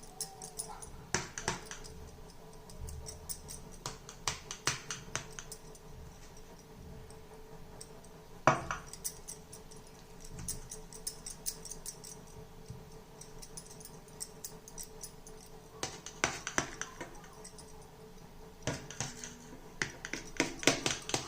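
Spoon scraping and clinking against a metal plate in short bursts as a thick sweet mixture is spread and pressed flat, with one louder knock about eight seconds in. A faint steady hum underneath.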